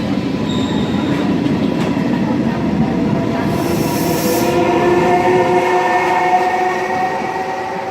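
Regional passenger train running on the rails with a rough rumble. A short hiss comes about halfway through, then a steady whine of several tones holds through the second half.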